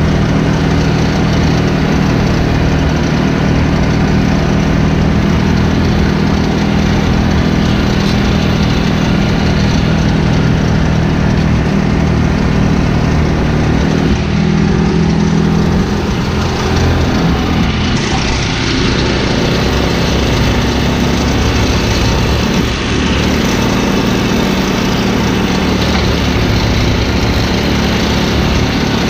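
Engine noise from mowing tall grass with a Dirty Hand Tools pull-behind brush mower, running steadily; the engine tone shifts about fourteen seconds in and again a few seconds later.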